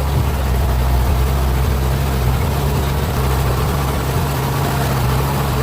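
Heavy vehicle engine running steadily with a deep, even drone.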